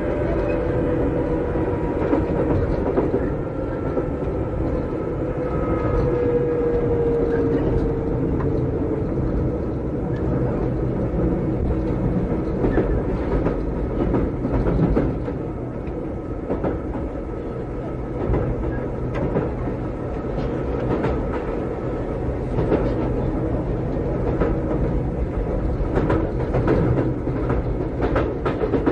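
Interior running sound of a Keikyu 600-series (second generation) electric railcar with Toyo Denki traction equipment: steady wheel and motor rumble, with a motor whine that falls gently in pitch over the first several seconds and fades. Rail-joint clicks come in clusters as the wheels pass over joints.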